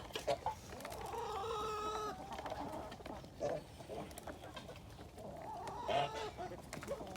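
Chickens clucking, with one drawn-out call about a second in and shorter clucks around three and a half and six seconds.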